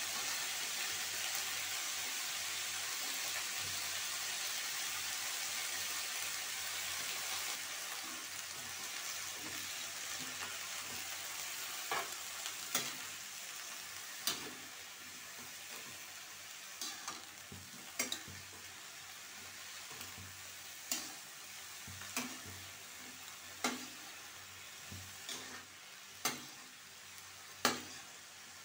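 Chopped cauliflower frying in a metal kadhai: a steady sizzle, loudest for the first several seconds and then easing. From about halfway on, a metal spatula stirs the pieces, clacking against the pan every second or two.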